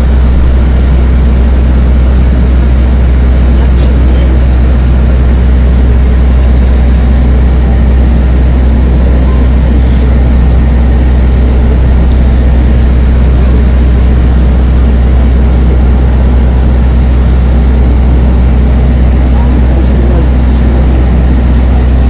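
Apron shuttle bus running, heard from inside the cabin: a loud, steady low engine and road rumble with no breaks.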